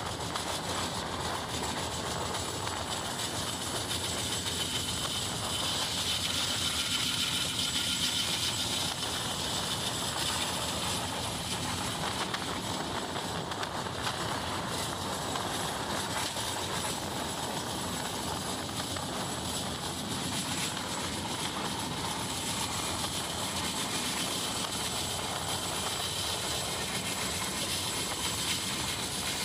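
Express passenger train running at speed, heard from on board at an open window: a steady rush of wind and rolling wheels, a little louder about six to nine seconds in.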